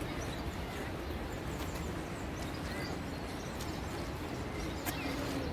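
Outdoor ambience: a steady low rumble and hiss with faint, scattered high chirps, and one sharp click near the end.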